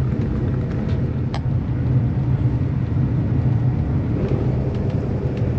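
Steady low rumble of a moving train heard inside the passenger carriage, with a single sharp click about a second and a half in.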